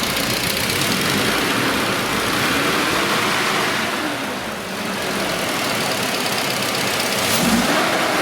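Toyota 2TR four-cylinder petrol engine running and being revved up and back down a couple of times, to pump up hydraulic lifters that had drained of oil pressure.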